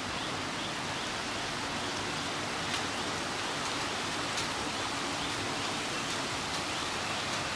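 Steady rain falling, with a few single drops ticking louder now and then.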